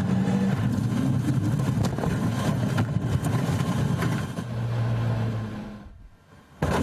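Rally car engine running hard on a stage at high revs, then dying away about six seconds in. A sudden loud burst of sound comes right at the end.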